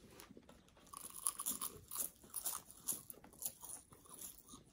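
Crispy wasabi seaweed snack sheets being bitten and chewed: a quiet run of crackly crunches that starts about a second in.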